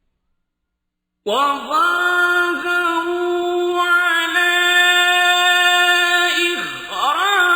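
Male reciter's voice chanting Quran recitation in melodic tajweed style. After about a second of silence he holds one long drawn-out note, with a turn in the melody near the end.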